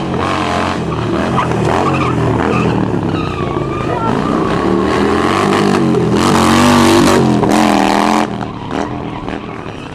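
Harley-Davidson V-twin engine revving up and down as the bike is ridden in tight circles, with tyres skidding on the asphalt in a burnout. The tyre noise is loudest about six to eight seconds in.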